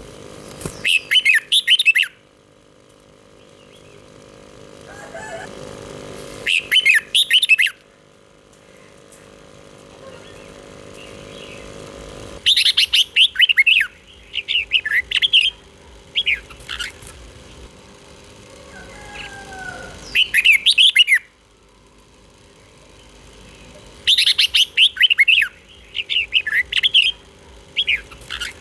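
Red-whiskered bulbul singing in short bursts of quick, rapidly repeated notes, with pauses of a few seconds between phrases; about five song bursts, the longest in the middle.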